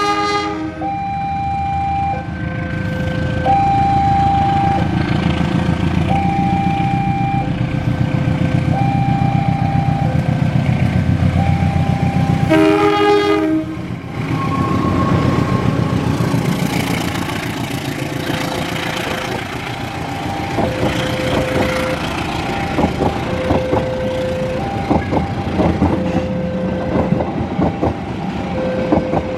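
A level-crossing warning alarm beeps in two alternating tones with a steady rhythm while a train approaches, its low engine rumble growing. The train sounds its horn at the start and again about halfway through, then passes with rhythmic clicking of wheels over the rail joints.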